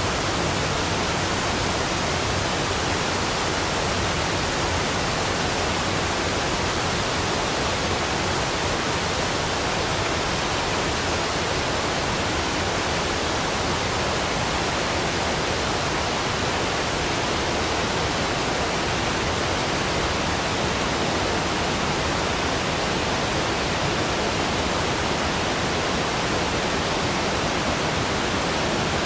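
Waterfall rushing: an even, unbroken wash of falling water that holds steady throughout.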